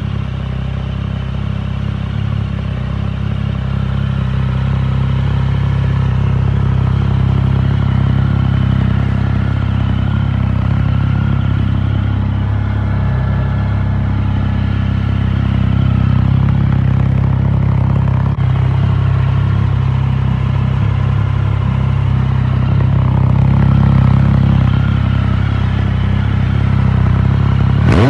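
Triumph Speed Triple's 1050 cc inline three-cylinder engine idling steadily through an Arrow 3-into-1 aftermarket exhaust.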